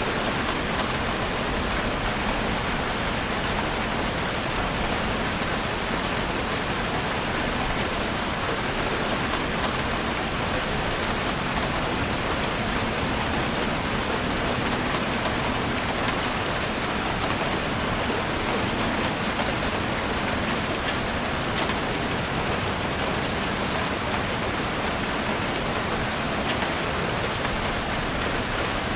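Heavy rain falling steadily on a roof, a dense even hiss with fine scattered drop ticks.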